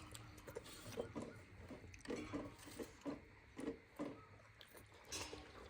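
Faint chewing and smacking mouth sounds of people eating steamed momo dumplings, in short irregular bursts a few times a second.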